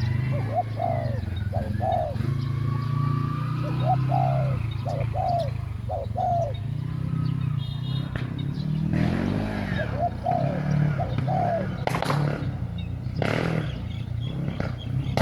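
Spotted doves cooing: short arched coos in small groups, repeated several times, over a steady low hum. A few brief rustling noises in the second half.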